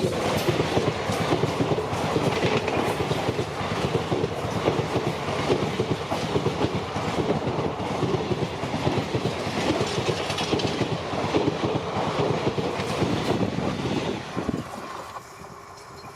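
Express train passing at speed, its coach wheels clattering rapidly over the rail joints with a steady rumble. The sound drops off sharply near the end.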